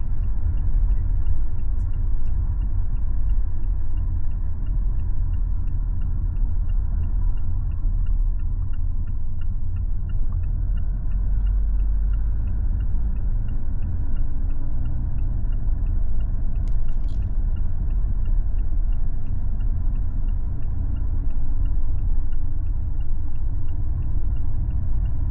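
Steady low rumble of a car driving, heard from inside the cabin, with a faint, even ticking about twice a second.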